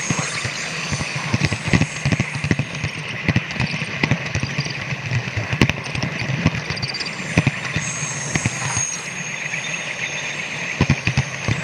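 Model train running along layout track: a steady running hum with many irregular sharp clicks of the wheels over the rail joints.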